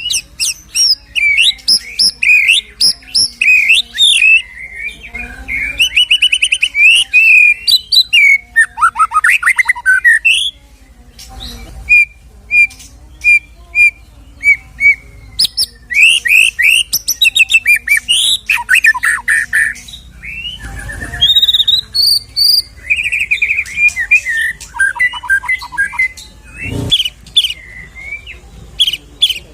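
White-rumped shama (murai batu) singing a long, varied song of loud whistles, rapid trills and chattering runs, packed with borrowed 'isian' phrases, with brief pauses between bursts.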